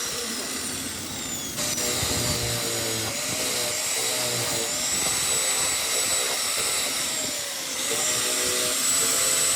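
A power tool's motor whining steadily, its pitch dipping briefly several times as the load on it changes.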